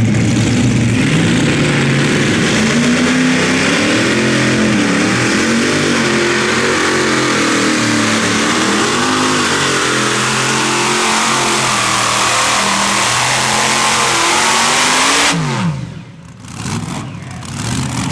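Competition pulling tractor's engine running at full power under load, its pitch wavering up and down, then winding down sharply with a falling pitch near the end.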